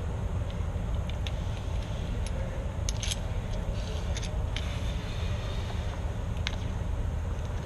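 A scatter of light metallic clicks and jingles as small metal lock parts are handled, over a steady low rumble.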